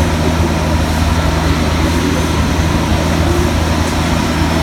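Studio tour tram running, a steady low engine drone with road noise and no change in pace.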